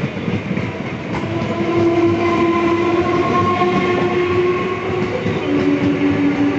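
Electric multiple-unit (EMU) local train running past close by: a dense rolling rumble with a steady whine over it, which steps down to a lower pitch about five seconds in.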